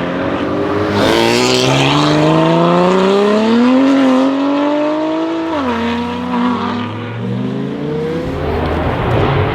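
Audi RS6 C8's tuned twin-turbo V8 with a straight-pipe exhaust accelerating hard, its pitch climbing for several seconds, dropping sharply at an upshift about halfway through, then climbing again in the next gear.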